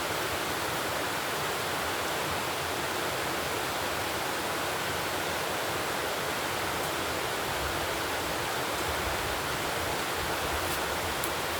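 Steady rush of running water, as from a nearby stream or small waterfall, with a couple of faint ticks near the end.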